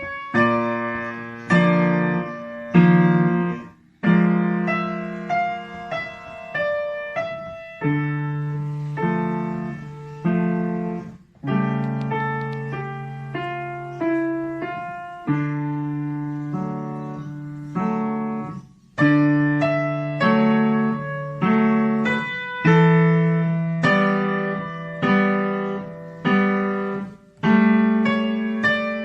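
Piano playing a slow melody over chords, each note struck and then fading, with short breaks between phrases.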